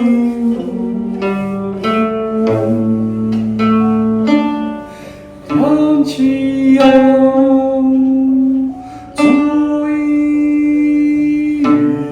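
Song-dynasty music played live: a plucked string instrument picking out a melody, joined by long held notes that slide up into pitch, with something of a singing voice.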